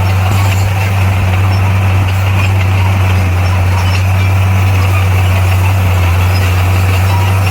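Bulldozer's diesel engine running steadily with an even, low drone.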